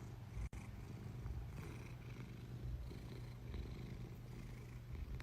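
Domestic cat purring: a soft, steady low rumble that throbs slowly and evenly.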